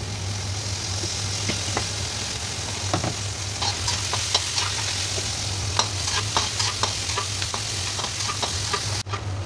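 Sliced shallots, garlic and red chilies sizzling in hot oil in a wok, frying toward fragrant and wilted as a spice base. A metal slotted spatula scrapes and taps against the wok as they are stirred, with many more strokes from about four seconds in.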